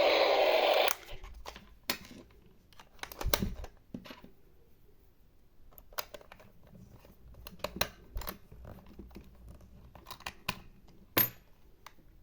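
A steady whirring noise cuts off about a second in, followed by scattered light clicks and taps of small objects being handled.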